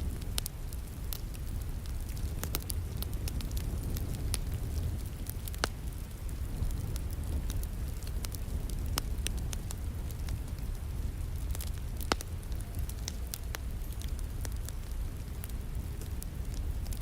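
Wood fire crackling and popping in a fireplace, with scattered sharp snaps, over a steady hiss of falling rain and a low rumble.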